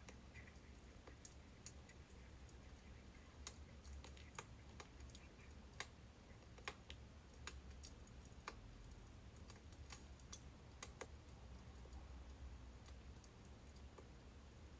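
Birch firewood crackling as it burns: faint, irregular pops and snaps, spaced unevenly, over a low steady hum.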